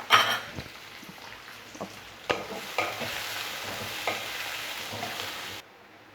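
Chopped onions sizzling in hot mustard oil while a spatula stirs and scrapes the pan in several short strokes. The sizzle cuts off suddenly shortly before the end.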